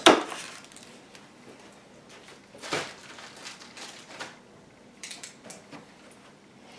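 Packaging and accessories being handled during an unboxing: a sharp knock as something is set down right at the start, another knock about three seconds in, then light clicks and rustling.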